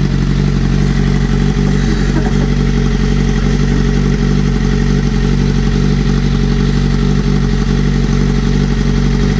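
Motorcycle with a straight-piped exhaust running at a steady engine speed, loud and even, with no revving.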